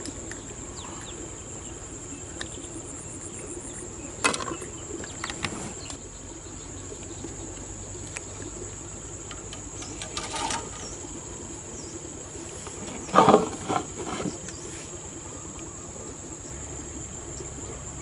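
Steady high-pitched drone of insects such as crickets, with a few short louder sounds about four, ten and thirteen seconds in.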